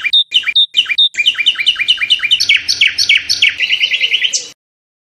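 A songbird singing one phrase of repeated clear down-slurred whistles that speed up into a rapid trill and end with a short flourish, then stop.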